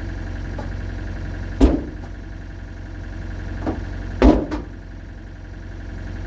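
An engine idling steadily, broken by two sharp, loud knocks about a second and a half in and again past four seconds, with a couple of fainter knocks around the second one.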